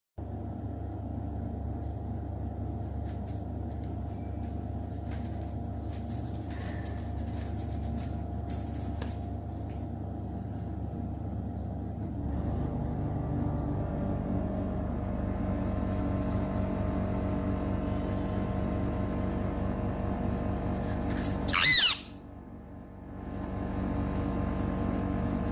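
A steady low mechanical hum that shifts in character about halfway through. A little over twenty seconds in, a single loud, short parrot squawk sweeps down in pitch, and the hum drops away for a moment after it.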